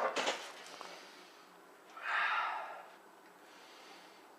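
A person's loud, sharp breath, a gasp or heavy exhale lasting about a second, starting about two seconds in.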